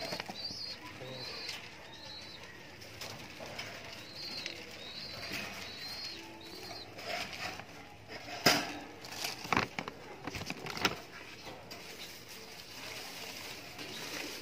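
Birds calling in the background, with short high chirps repeated several times in the first five seconds and a few lower calls. Three sharp knocks come in the middle, the first the loudest.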